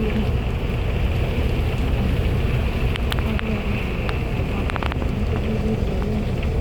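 Heavy rain falling steadily, a constant rush with a deep rumble underneath, and a few sharp drip clicks about three and five seconds in.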